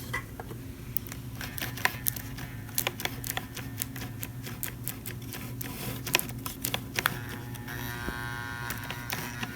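Model train locomotive's electric motor buzzing and humming steadily under power without turning, with scattered sharp clicks; a higher whine joins about eight seconds in. The motor strains but does not run, which the owner takes for a seized motor.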